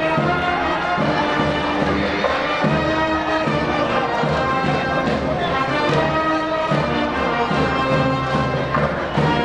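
Brass band playing loud, steady music of sustained held notes that change pitch every second or so.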